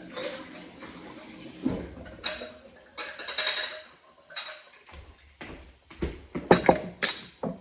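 Kitchen prep sounds: scattered knocks and a stretch of scraping and rustling, then a quick run of sharp knocks and clatter near the end.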